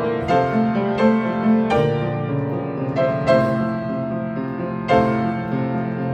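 A century-old upright piano, a little out of tune, playing a slow minimalist neoclassical prelude. New notes and chords are struck about once a second and ring on over held lower notes.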